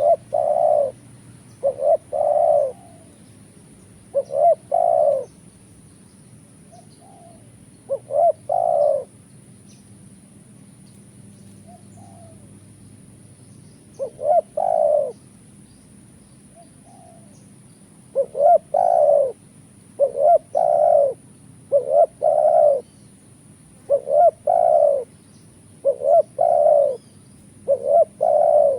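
Spotted doves cooing in repeated two- and three-note phrases. The phrases come in scattered bouts at first, then almost without a break through the last ten seconds, with a few softer coos in the gaps.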